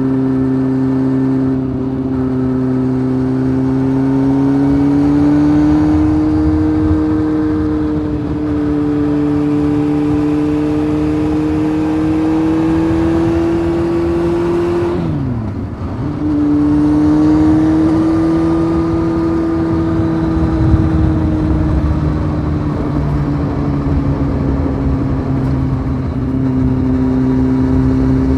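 Honda CBF 600 inline-four motorcycle engine running through a titanium sport exhaust at steady cruising revs, the pitch rising and falling gently with the throttle. About halfway through, the revs drop sharply for a moment and then pick up again.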